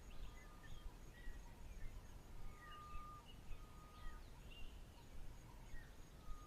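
Faint outdoor birdsong: scattered short chirps and a few held, whistled single notes, with a faint, evenly pulsing high tone behind them.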